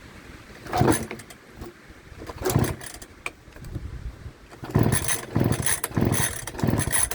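Recoil starter cord of a 52cc two-stroke backpack leaf blower being pulled over and over, the engine turning over without catching. Two separate pulls come first, then a quicker run of pulls about every half second near the end.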